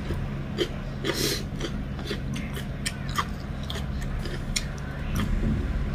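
Close-up wet chewing and lip smacking of someone eating dhido and chicken curry by hand: an irregular run of short, sticky clicks and smacks over a steady low hum.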